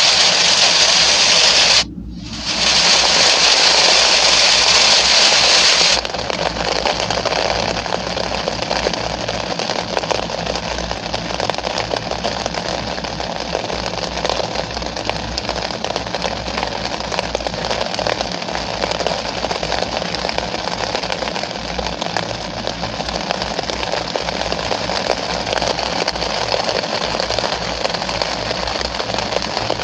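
Steady rain: a dense, loud hiss that briefly drops out about two seconds in. About six seconds in it changes to a less hissy rain sound full of fine crackling drops.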